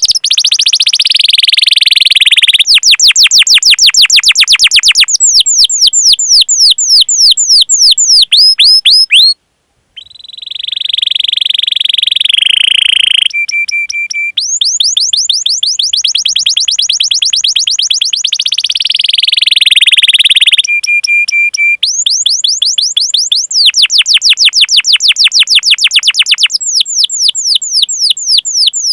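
Domestic canary singing: fast trains of sharp, downward-sweeping 'cuit cuit' notes run together into rolls, broken by short steady whistled notes. The song stops briefly about nine seconds in, then resumes.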